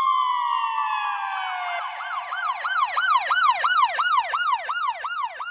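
Emergency-vehicle siren: a held tone slides slowly down, then switches to a fast yelp that rises and falls about three times a second.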